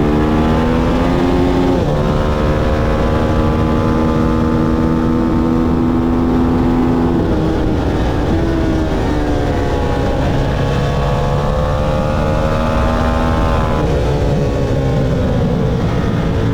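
Motorcycle engine at full throttle on a race track, its pitch climbing and dropping sharply as it shifts up about two seconds in. It eases off around seven seconds, pulls hard again and is cut back near the end, over a steady rush of wind noise.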